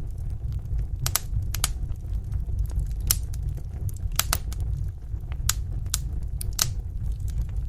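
Wood fire in a fireplace crackling: about a dozen sharp pops and snaps at irregular intervals over a steady low rumble of the burning fire.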